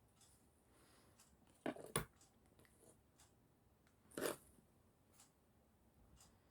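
A knife cutting through eggplant on a cutting board: a couple of quick cuts about two seconds in and one more near the middle, with near silence between.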